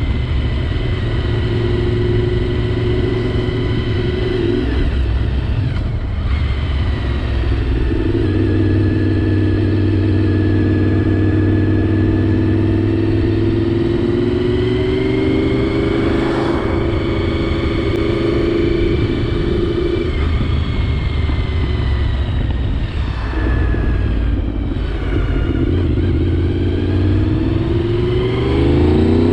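Honda VFR750's V4 engine running under way, its note holding steady for long stretches and shifting a few times with throttle and gear changes. Near the end it rises as the bike accelerates.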